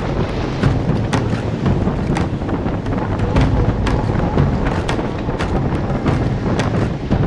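Strong wind buffeting the microphone and water rushing past a sailboat's hull under sail in about 20 knots of wind, with frequent irregular sharp slaps.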